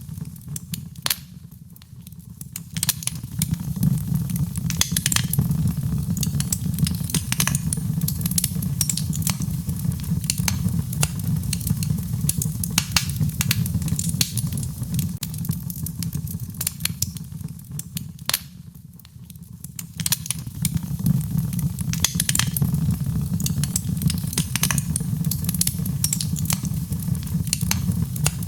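Wood fire crackling with frequent sharp pops over a steady low rumble, mixed with gentle rain. The whole mix dips in level briefly twice, about 2 seconds in and again past the middle.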